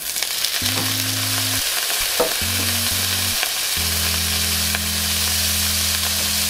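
Cod fillet cubes sizzling in hot bacon fat in a pan, the hiss starting suddenly as the fish goes in and running on steadily while a spatula moves the pieces.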